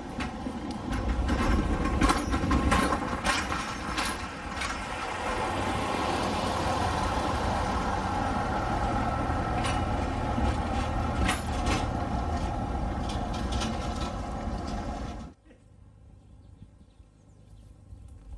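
A train running past: a loud, heavy rumble with repeated sharp clanks and hisses. It cuts off abruptly about 15 seconds in, leaving a much quieter background.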